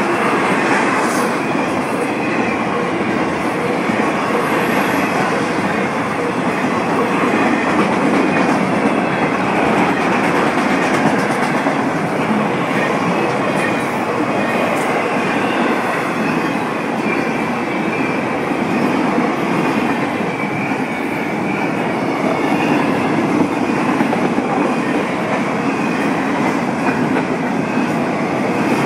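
Intermodal freight train cars passing on the rails: a loud, steady noise of wheels running over the track, with no horn or pause.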